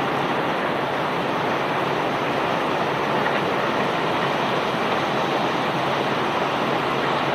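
Self-unloading barge discharging bulk rock cargo by conveyor: a steady, even rushing and rattling of the running unloading machinery and falling material.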